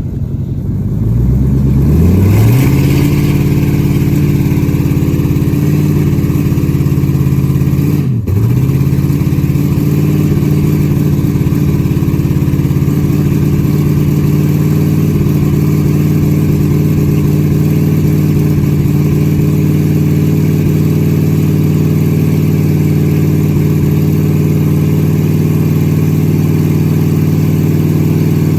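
A vehicle engine revs up over about two seconds, then is held at a steady high speed, with one brief drop and recovery in revs about eight seconds in.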